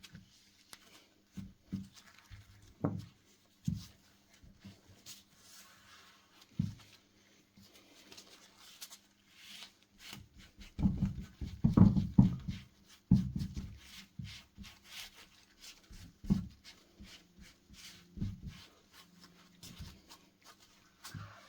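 Scattered soft knocks and rubbing, as of hands handling objects, with a run of louder thumps about halfway through. A faint steady hum runs underneath.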